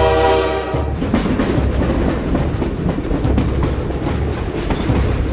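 A train whistle that cuts off under a second in, then a train running with a steady rumble and the clatter of wheels on the rails.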